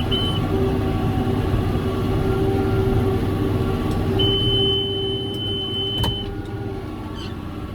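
John Deere 7410 tractor's six-cylinder diesel engine running steadily while pulling a John Deere 468 round baler. Midway a single high-pitched beep holds for about two seconds, the baler monitor's alarm, and a click follows, after which the engine sound eases a little.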